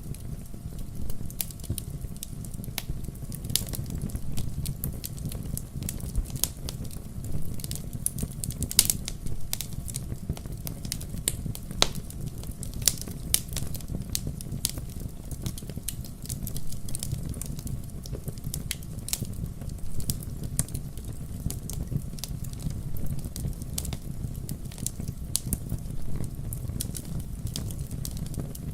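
Wood fire crackling: irregular sharp pops and snaps of burning logs over a low, steady rumble.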